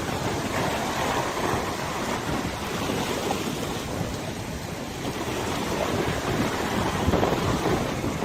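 River water washing and lapping, with wind buffeting the microphone in gusts.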